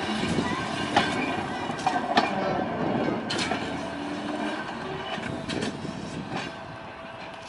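Volk's Electric Railway car running along the narrow-gauge track, a steady rumble with its wheels clicking irregularly over the rail joints; it grows slightly quieter near the end.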